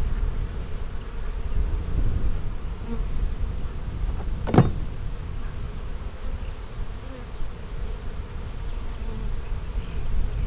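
Honey bees buzzing steadily around an open hive, with one sharp click about halfway through.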